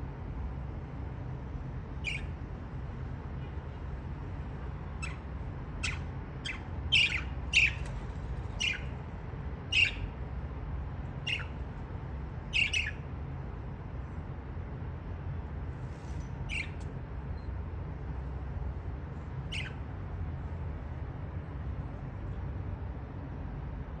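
Budgerigars giving short, sharp squawks and chirps, about a dozen scattered calls that come thickest between about five and thirteen seconds in, over a steady low hum.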